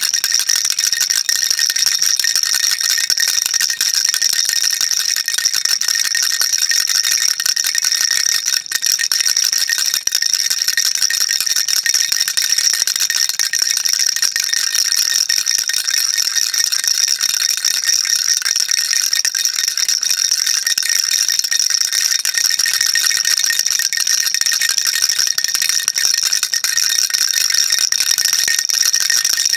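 A baby rattle shaken continuously, small beads rattling inside it in a dense, even, high-pitched stream without pauses.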